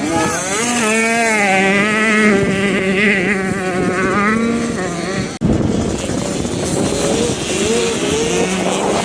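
Motocross dirt bike engines running at high revs, the pitch wavering up and down with the throttle. About five seconds in the sound breaks off abruptly, then picks up again noisier with a fainter engine note.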